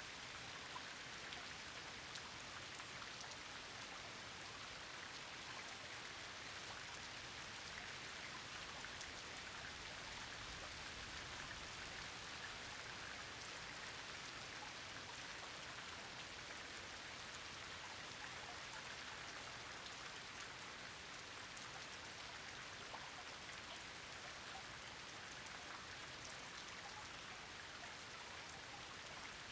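Rain falling steadily, a continuous even hiss with many small drop ticks scattered through it.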